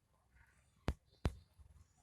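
Two sharp clicks about a third of a second apart, a little before and after the middle.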